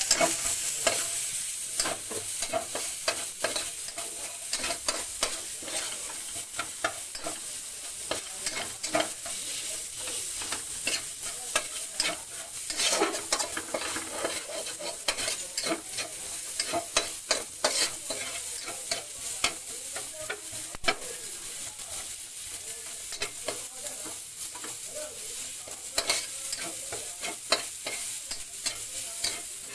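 Chopped ginger, garlic and onion sizzling in a little oil in a wok, with a metal spatula scraping and clicking against the pan as they are stirred.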